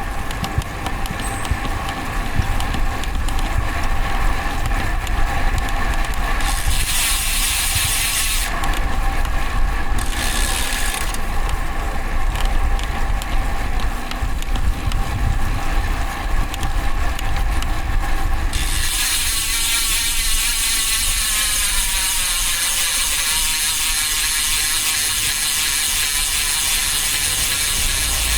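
Road bicycle on the move with rapid ratchet clicking from the DT Swiss rear freehub as it coasts, over tyre and wind noise. About two thirds of the way in, the clicking gives way to a steadier hiss.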